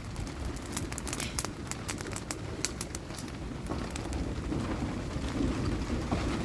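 Outdoor ambience: a low bird call over a steady low rumble, with many scattered light clicks and patter.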